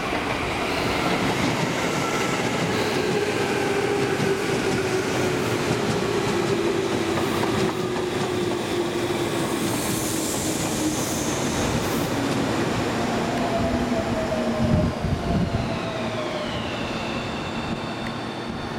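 Tobu 10000-series and 30000-series coupled electric train slowing as it runs into a station: a steady rumble of wheels on rail with several whines falling in pitch as it brakes. A brief high squeal comes about ten seconds in, and a couple of knocks about fifteen seconds in.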